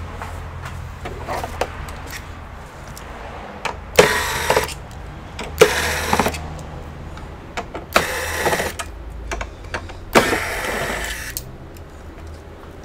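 A small electric motor running in four short bursts of about a second each, roughly two seconds apart, over a low background hum.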